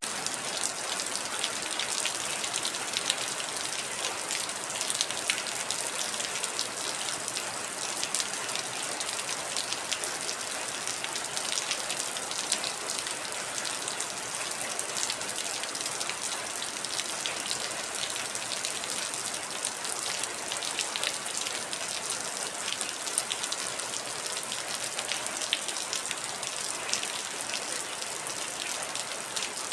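Heavy rain falling steadily, a dense hiss with many individual drops pattering and ticking on a surface.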